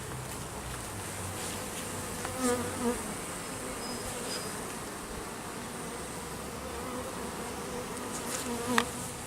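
Honey bees buzzing in a steady hum around an opened hive, with a few louder, wavering buzzes about two and a half seconds in and again near the end.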